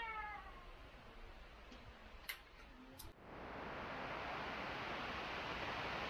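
Two sharp clicks in near quiet, then, about three seconds in, a steady rush of water pouring down over the dam starts abruptly and carries on.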